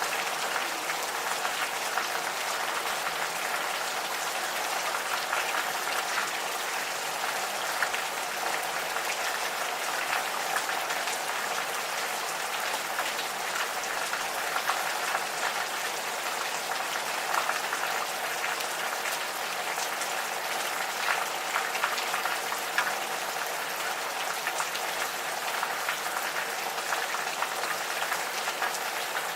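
Steady gentle rain, a dense patter of drops falling on surfaces.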